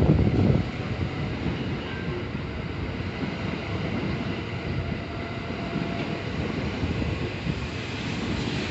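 A train running past on the rails, a steady low rumble, with a loud thump in the first half second.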